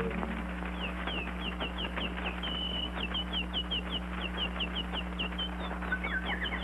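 Cartoon-soundtrack bird chirping: a quick, even series of short high chirps, about four a second, over a steady low hum.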